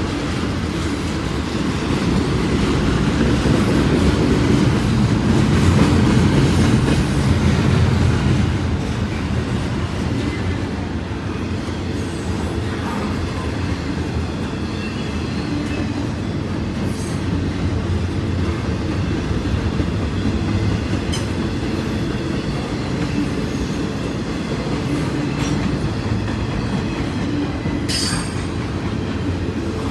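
Loaded double-stack intermodal well cars rolling past: a steady rumble and clatter of steel wheels on rail, loudest a few seconds in, with faint high wheel squeal in places and one brief sharp high sound near the end.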